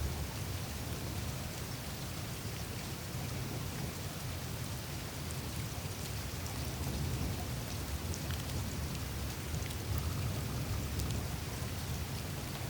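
Melting glacier surface on the Greenland ice sheet: a steady rain-like trickle of meltwater with scattered fine ticks, over a low steady rumble.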